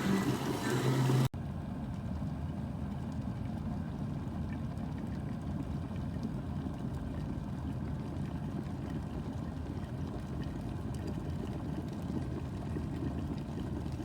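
Background music cuts off about a second in. A COSORI glass electric kettle follows, heating water with a steady low rumbling hiss.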